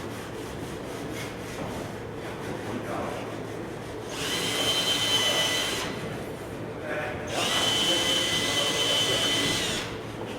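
Power drill running at steady speed in two bursts, about two seconds each, with a high steady whine, after some quieter handling and rubbing noise.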